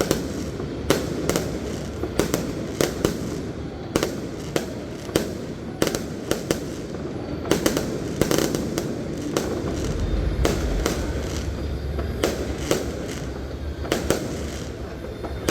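Aerial fireworks exploding: a rapid, irregular series of sharp bangs and pops over a continuous rumble, as shells burst one after another.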